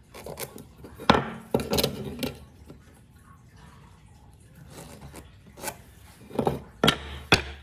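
Knocks and clatter of wood being handled and struck: a handful of sharp knocks about a second in, then another run of knocks near the end.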